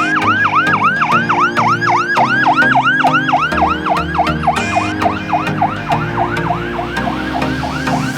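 Fire engine siren on a fast yelp: rapid rising sweeps, about four a second, over a lower steady sound.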